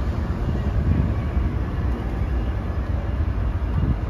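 Metrolink bilevel diesel commuter train pulling out of the station: a steady low rumble of the engine and rolling wheels.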